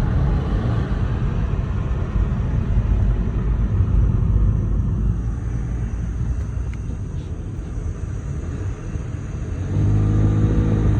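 Car running with a steady low rumble from underneath, and a low pitched drone coming in near the end. The owner takes the noise for something dragging under the car, perhaps a bone or deer-carcass debris caught there after running over a dead deer, rather than an exhaust fault.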